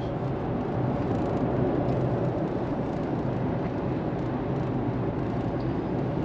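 Steady road and engine drone heard inside a car cabin while driving at road speed.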